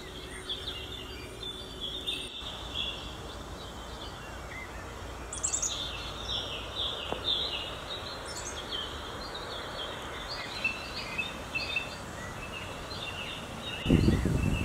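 Birds chirping: many short calls in quick succession over a steady low background noise. Near the end a louder low rumbling noise begins.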